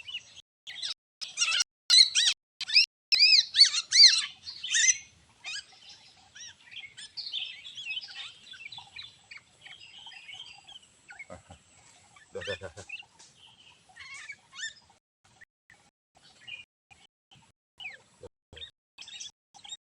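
Small birds chirping: a fast run of loud, repeated chirps about a second in that lasts some four seconds, then softer, scattered chirps.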